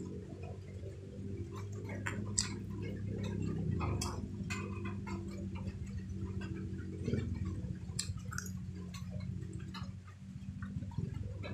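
Close-up chewing of cooked chicken: irregular wet mouth clicks and smacks, over a steady low hum.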